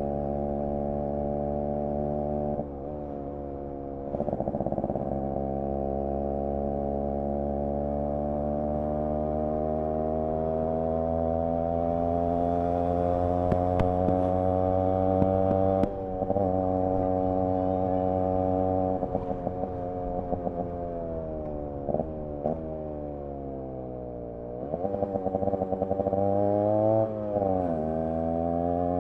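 Yamaha RX 100's single-cylinder two-stroke engine and exhaust under way. The engine pitch climbs steadily through the gears, with quick drops at gear changes. Around three-quarters of the way through it falls away as the throttle closes, then revs up again.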